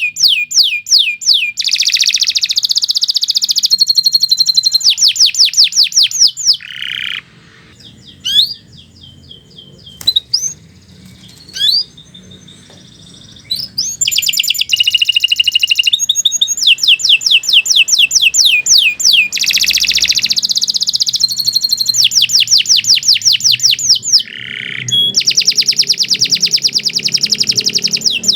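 Domestic canary singing in full, continuous song: fast rolls and trills of rapidly repeated sweeping notes, several changes of phrase, and a pause of about six seconds near the middle broken by a few short chirps.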